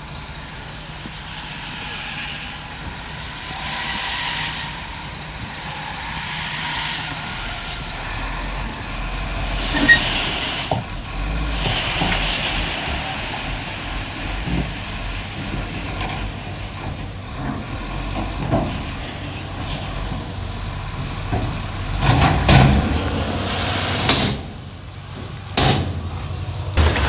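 Heavy diesel construction machinery running steadily, with scattered knocks and clatter. Near the end come several short, louder bursts of noise.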